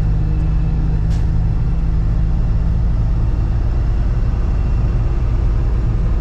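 Box truck's engine and road rumble heard inside the cab while driving: a steady low drone with a faint click about a second in.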